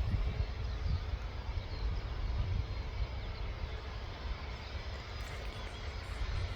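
Wind buffeting an outdoor microphone: an uneven, gusty low rumble.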